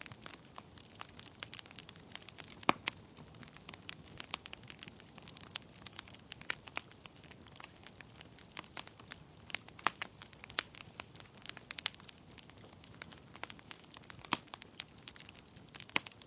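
Wood fire in a fireplace burning steadily, with burning logs crackling and popping irregularly over a soft hiss; a few sharper pops stand out, about three seconds in and near the end.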